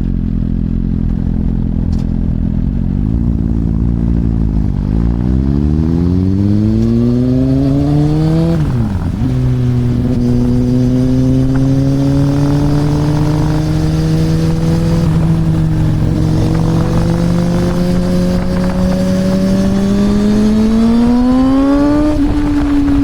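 Motorcycle engine and exhaust pulling away and accelerating. The pitch climbs, drops sharply at two gear changes, then rises steadily through a long pull in a higher gear and eases slightly near the end.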